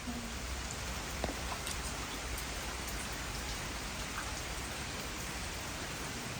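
Steady heavy rain falling and pattering on surfaces, an even hiss throughout, with one small click about a second in.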